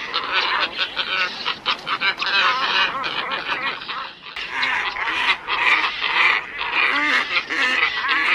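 A flock of glossy ibises calling, many overlapping calls in a dense, continuous chatter, with a brief break about four seconds in.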